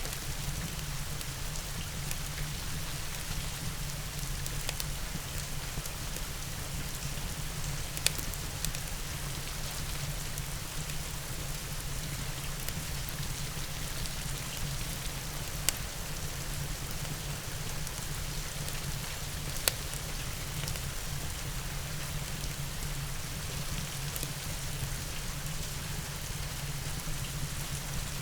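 Steady rain falling in an even hiss with a low rumble beneath, from a rain-and-fireplace ambience mix. Three sharp pops stand out over it, spread through the stretch.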